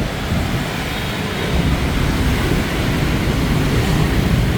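Heavy street traffic, mostly motorbikes: a dense, steady rumble of many small engines and tyres that swells slightly toward the end.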